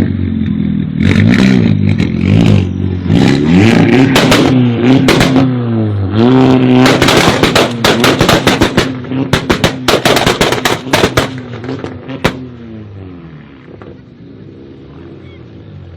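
Vehicle engine revved hard several times, its pitch rising and falling, with a rapid run of exhaust pops and crackles as the revs drop and one last sharp pop, before it settles back to a quieter idle.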